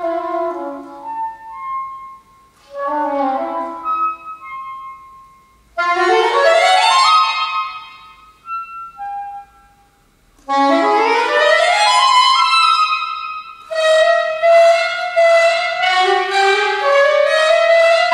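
Solo saxophone playing contemporary concert music: short phrases broken by pauses, then two fast rising runs. About three-quarters of the way in it moves into a continuous line of quick, evenly repeated notes.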